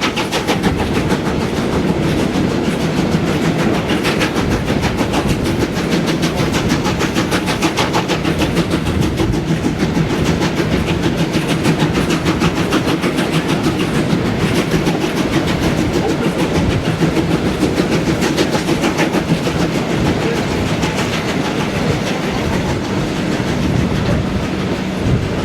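Steam-hauled train behind locomotive SJ 1916 running steadily along the track, with a continuous fast clickety-clack of wheels and running gear.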